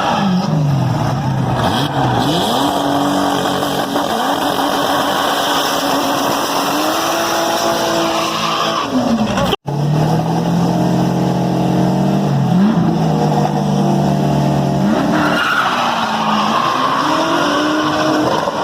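Dodge V8 drag car engine revving, dropping and climbing in pitch and held at steady high revs for stretches, with tires skidding: a burnout. The sound cuts out abruptly for a moment about ten seconds in.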